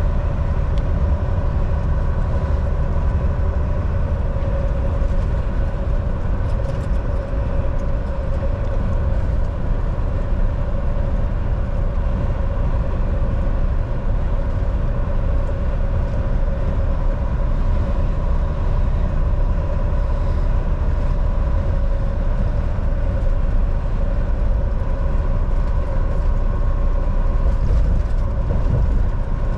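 Volvo VNL 760 semi truck cruising at a steady speed: a diesel engine drone with a low, even rumble of road and tyre noise, holding one pitch throughout.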